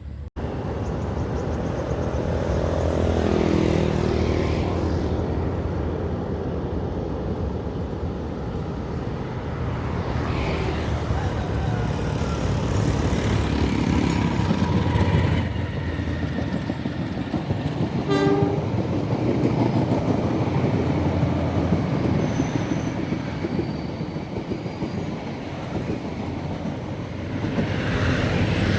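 A locomotive-hauled passenger train passing, with a steady rumble of engine and wheels on rail, and a horn sounding early on with its pitch falling.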